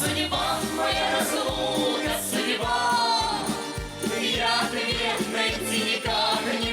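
Russian folk music played live: voices singing over a garmon accompaniment, with a steady bass beat about twice a second.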